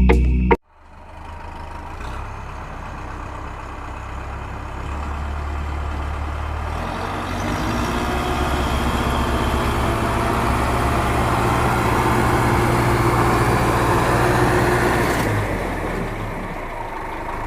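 An engine running steadily, growing gradually louder over the first several seconds and easing off near the end.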